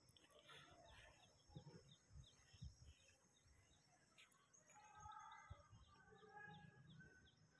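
Near silence, with faint birds chirping in quick, repeated short notes, a few per second, and a few soft thumps.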